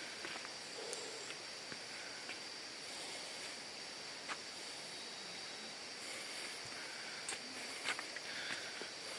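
Steady high-pitched drone of insects in the forest over an even hiss, with a few faint clicks near the end.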